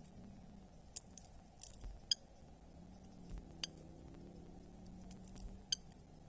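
A few short, sharp clicks at a Eurasian hobby nest, spaced irregularly about a second apart, over a faint low hum.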